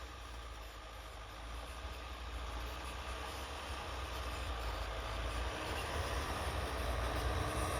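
Mitsubishi L200 pickup driving on snow: a steady engine and tyre rumble that grows gradually louder.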